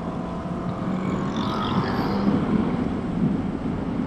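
Motorcycle engine running steadily at cruising speed, with wind rushing over the helmet microphone.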